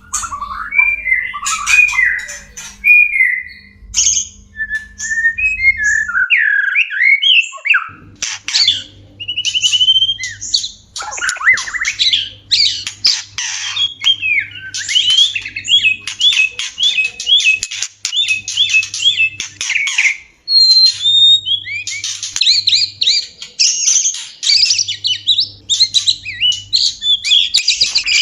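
White-rumped shamas calling and singing: a dense run of whistled phrases and harsh chatters, with a stretch of repeated rising notes about two a second in the middle. These are the shama's mating calls, used to bring caged birds into breeding condition.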